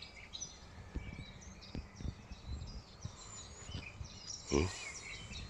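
Small birds chirping and twittering, many short high calls throughout. Low thumps and rustles underneath, with one louder knock about four and a half seconds in.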